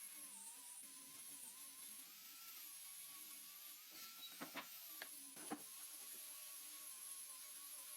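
Near silence: a faint steady high whine, with a few soft clicks about halfway through.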